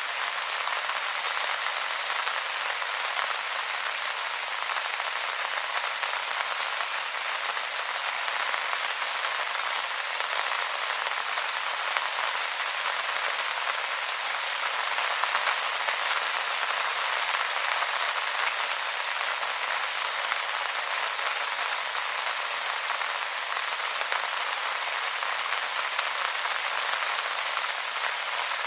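Steady rain falling on wet leaves: an even hiss of countless small drops landing, with no low rumble and no change in strength.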